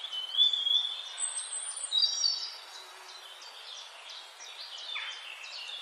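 Several small birds singing: a drawn-out whistle, a few higher chirps and quick repeated short notes over a steady background hiss, loudest in the first two seconds or so.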